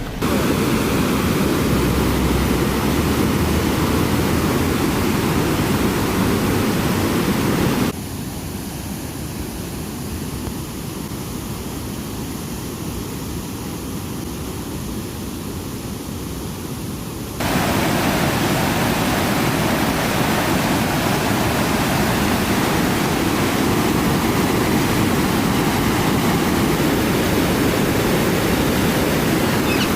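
Floodwater pouring over an overflowing weir: a loud, steady rush of water. From about eight seconds in, it drops and goes duller for roughly ten seconds, then comes back as loud as before.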